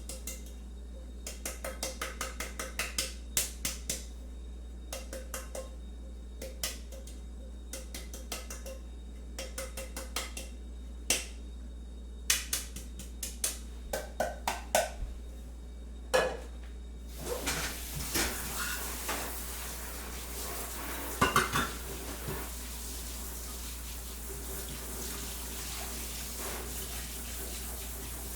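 A teaspoon clinking against crockery in quick runs of sharp, ringing clinks. About seventeen seconds in, a steady hiss starts and carries on to the end, with a few more knocks. A low hum sits underneath throughout.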